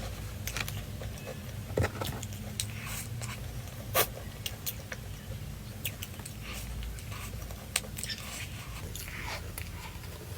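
Crunchy food being bitten and chewed: irregular sharp crunches, the loudest about two, four and eight seconds in.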